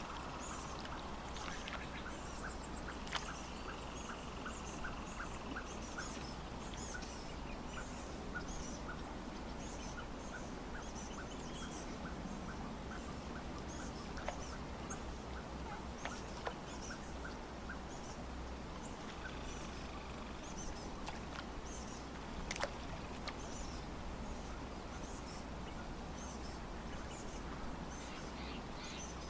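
Wild birds calling: scattered high chirps throughout, and a run of short ticking calls about two to three a second over the first half. A steady low hum lies underneath.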